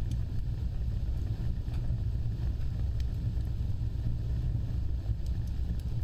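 Fireplace fire burning with a steady low roar, with a few sharp crackles scattered through.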